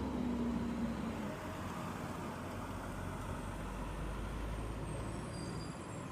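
Garbage truck running with a steady low engine rumble. A whine fades out about a second in.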